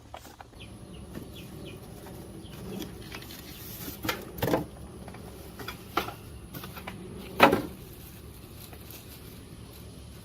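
Scattered knocks and rustles from a cardboard box and its packing being handled while a portable water heater is unboxed, the loudest knock about seven and a half seconds in.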